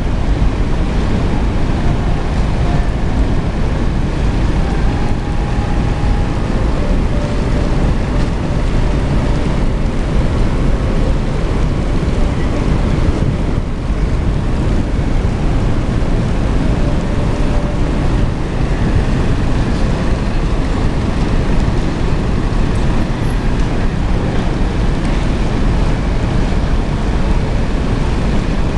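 Steady wind noise on the microphone over the low rumble and sea wash of a cruise ship under way.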